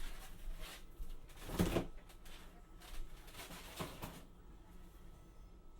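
Kitchen work sounds: a few soft knocks and scrapes, the loudest about a second and a half in, with quiet stretches between.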